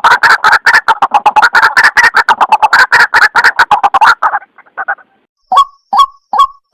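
White-breasted waterhen calls from a bird-lure recording: a loud, fast run of harsh repeated notes, about eight a second, that breaks off about four seconds in. After a short pause comes an even series of single calls, two to three a second.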